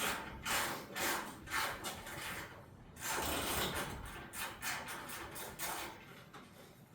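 Rhythmic rasping strokes, about two a second with a short pause partway through, from a wrench being worked by hand on a fender bolt.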